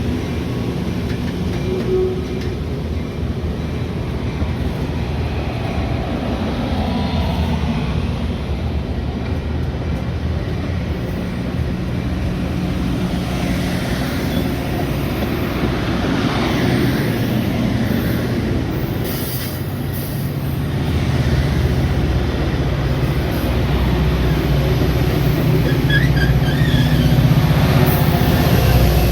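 Metra commuter train running, with a steady low drone and rumbling rail noise that grows louder about two-thirds of the way through.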